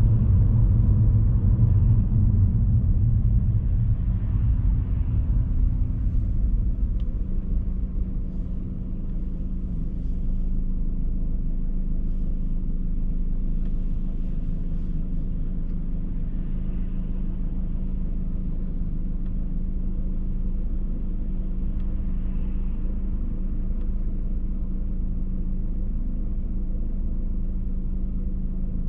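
A car driving: a steady low rumble of road and engine noise with a constant hum, louder for the first several seconds, then easing a little about eight seconds in and staying level.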